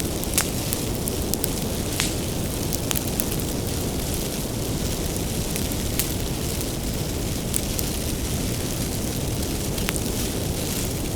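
Bonfire of firewood burning with a steady low rush, broken every second or two by sharp crackles and pops.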